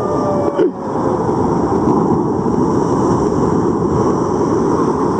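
Steady roar of ocean surf and wind, a deep even rumble of big waves, with wind buffeting the microphone.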